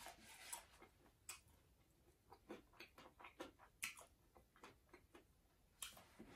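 Faint chewing: scattered soft mouth clicks, a dozen or so spread unevenly, with near silence between them.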